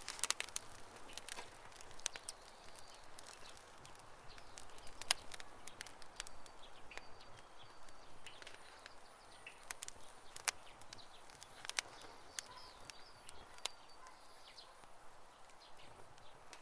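Wood campfire crackling: irregular sharp pops and snaps, some much louder than others, over a soft steady hiss of the burning fire.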